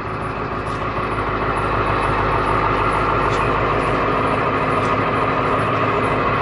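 A motor vehicle running steadily, a continuous engine hum with road or fan noise. It grows a little louder over the first two seconds, then holds steady.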